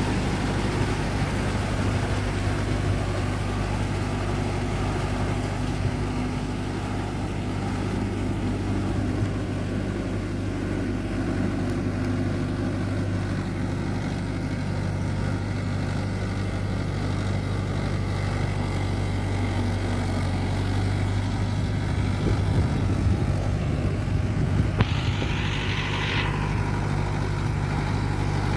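Mahindra Yuvo Tech+ 585 tractor's three-cylinder diesel engine running at a steady speed. Near the end comes a brief hiss lasting about a second.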